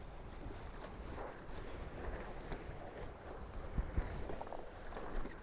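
Wind buffeting the microphone and water rushing along the hulls of a Tornado catamaran under sail, with two short low thumps about four seconds in.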